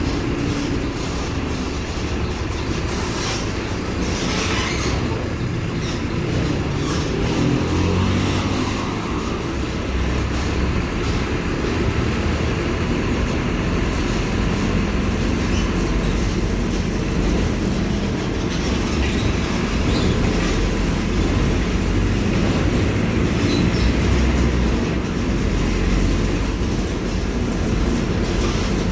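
The diesel engine of a Mercedes-Benz OF-1721 BlueTec 5 city bus running steadily while the bus is under way, with a deep rumble and body noise. Its pitch rises for a few seconds around seven seconds in as the engine revs up.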